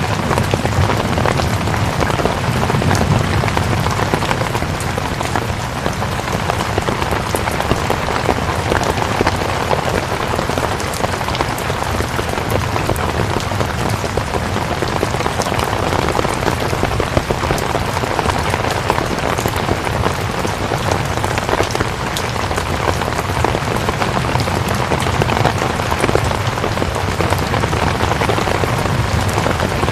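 Steady rain falling on a surface: an even hiss full of small drop ticks, with a low rumble underneath.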